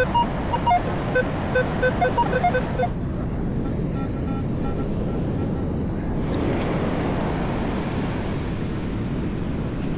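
Minelab Manticore metal detector giving a quick run of short beeps that jump between several pitches, over steady surf. The broken, uneven signal sounds poor, and the target is a heavily encrusted penny. The beeps thin out to a few faint ones after about three seconds.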